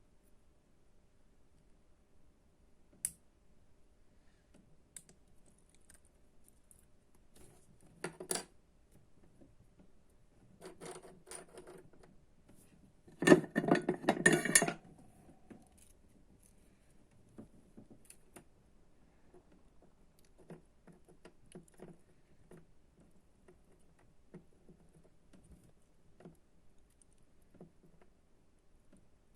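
Small hard objects handled on a work surface: scattered light clicks, with bursts of clattering and rattling about 8 and 11 seconds in, and the loudest, longest clatter at about 13 to 15 seconds.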